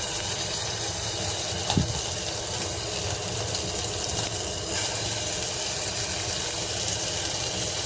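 Raw chicken pieces sizzling steadily in hot oil in a frying pan, with one short knock about two seconds in.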